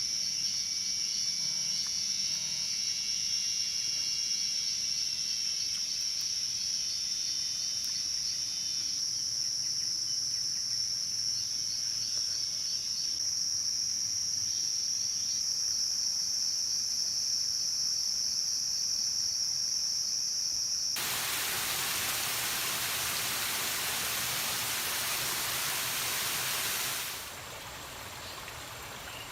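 Insect chorus: a steady, high-pitched buzz. About two-thirds of the way through it cuts off abruptly and gives way to a broad hiss of falling water, which drops to a lower level near the end.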